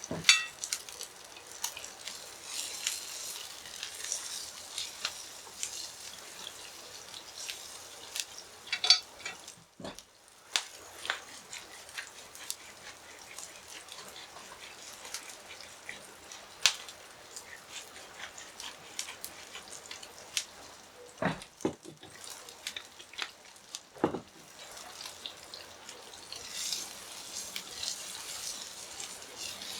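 Food sizzling on a charcoal grill, a steady hiss with scattered crackles and a handful of sharper clicks or knocks.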